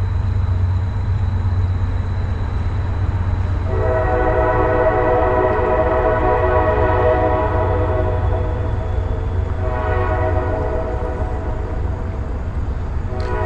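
Train passing with a steady low rumble; its horn sounds a long blast about four seconds in, then a second blast after a brief break near ten seconds.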